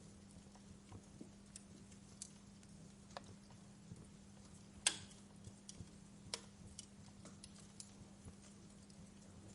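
Wood fire crackling in a fireplace: scattered irregular pops and snaps, the loudest about five seconds in and another about a second and a half later, over a faint steady hum.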